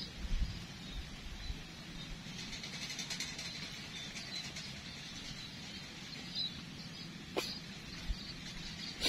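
Quiet riverside background with faint high bird chirping, and a short sharp sound about seven seconds in.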